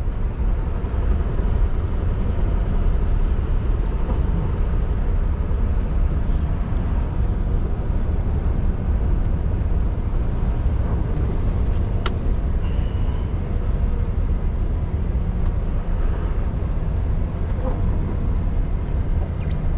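2016 Scania R620 V8 stock truck under way, its engine rumble and road noise heard steadily from inside the cab. A single sharp click about twelve seconds in.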